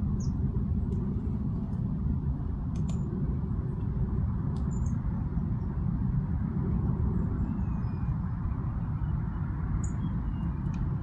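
Steady low rumble of distant road traffic, with a few faint, short high chirps from small garden birds.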